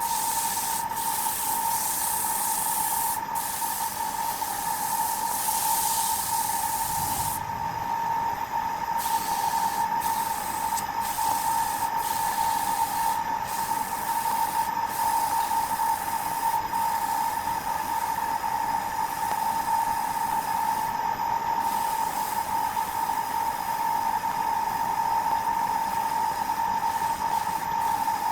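Wood lathe running with a steady whine, over the hiss of a tool cutting into the spinning wood.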